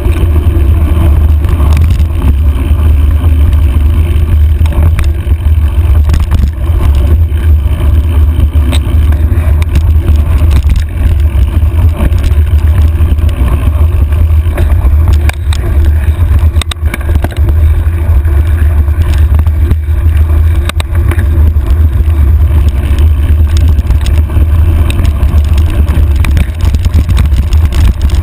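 Wind buffeting the microphone of a handlebar-mounted camera on a moving mountain bike: a loud, steady low rumble, with scattered clicks and rattles from the bike jolting over rough trail.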